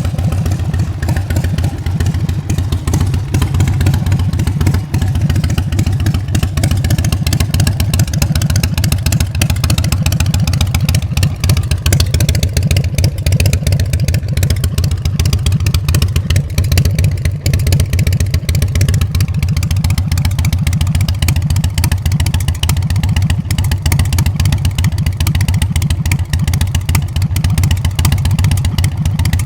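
Big Dog Chopper's carbureted 117-cubic-inch S&S V-twin running steadily through Mean Mother exhaust pipes, a deep, fast, even pulsing.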